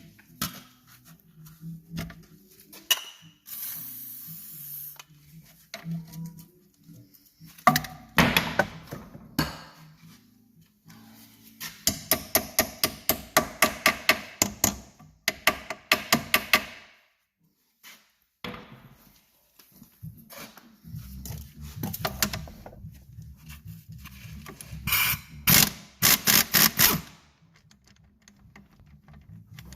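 Hand tools working on a car's suspension: scattered knocks and clanks on metal, with two runs of rapid, evenly spaced strikes, the first lasting several seconds in the middle and the second shorter, near the end.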